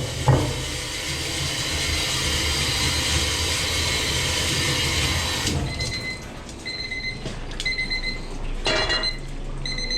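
Steady loud kitchen hiss, then about five and a half seconds in it drops away and an electronic kitchen timer starts beeping, short high beeps about once a second.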